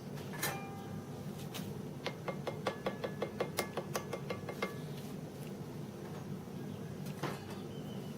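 Hard metal object tapped in quick succession, about five ringing clinks a second for roughly two and a half seconds, with a single clink about half a second in and one more knock near the end.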